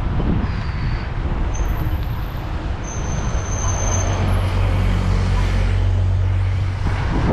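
Road traffic passing, with a steady engine hum that starts about halfway through, over wind buffeting the microphone of a moving bicycle.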